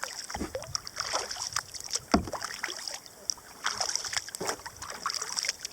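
Kayak paddle dipping into the river, with irregular short splashes and drips from the blade.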